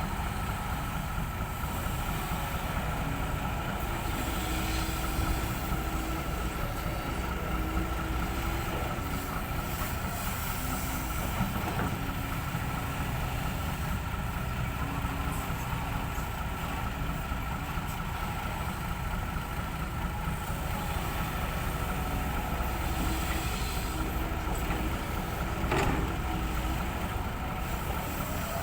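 Heavy diesel excavator running steadily under load as it digs and loads soil into a ten-wheel dump truck, with a steady high whine over the engine drone. There is a brief knock near the end.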